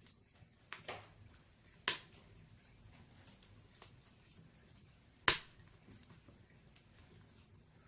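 Wood burning in a fireplace: a quiet low hiss of the flames with a few sharp pops of crackling logs, the loudest two about two seconds in and about five seconds in.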